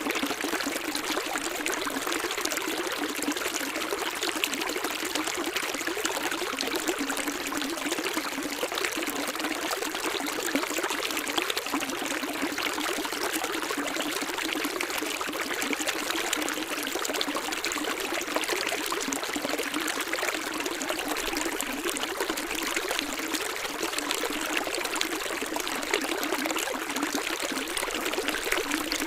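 Running water flowing steadily, an even splashing rush like a stream, with almost no deep rumble.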